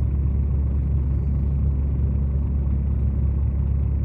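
Steady low drone of a semi-truck's diesel engine and road noise, heard inside the cab while driving at an even speed.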